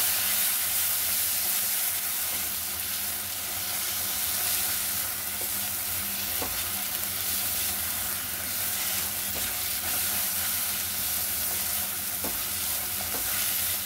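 Tomato and spice masala sizzling in hot oil in a kadai while it is stirred, a steady frying hiss with a few light taps and scrapes. The spices are being roasted (bhuna).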